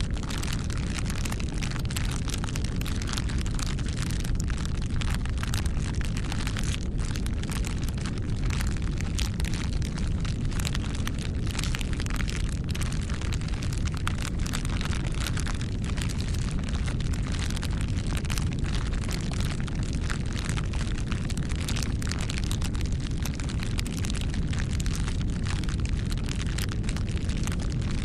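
Wood campfire burning: a steady low rumble of the flames with frequent sharp crackles and pops.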